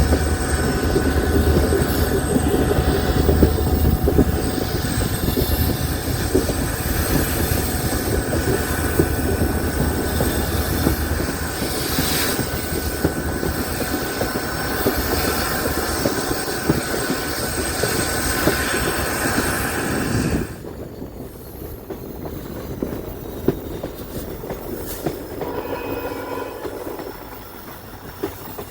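Passenger train running along the track: a steady rumble of wheels on rails, with a thin high whine over it. About two-thirds of the way through, the sound drops suddenly to a quieter level.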